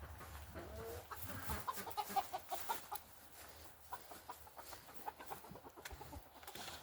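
Chickens clucking faintly: a run of short clucks in the first few seconds, then scattered single clucks.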